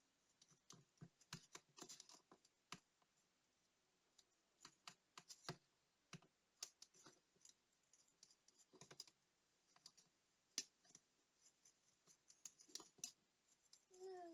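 Faint, irregular clicks and short scratches of small hand tools handling the tiny parts of a digital wristwatch.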